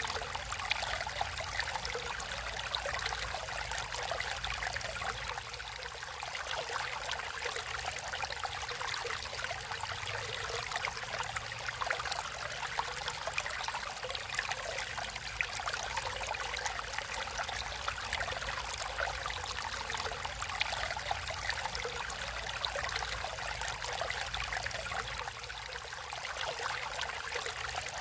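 Stream water flowing steadily, a continuous rushing with fine splashing and trickling detail.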